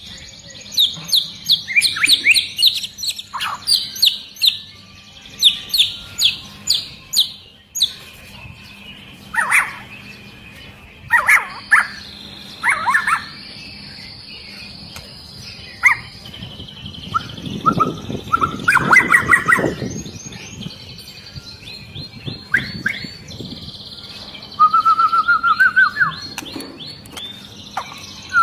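White-rumped shama (murai batu) in full song: fast runs of repeated high notes, sharp up-and-down whistles, and a few held whistles about halfway through.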